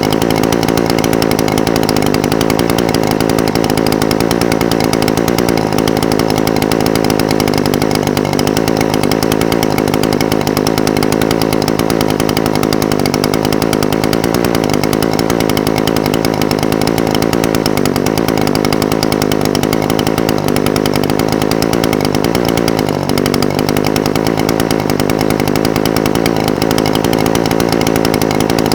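Echo SRM-420TES brush cutter's two-stroke engine idling steadily.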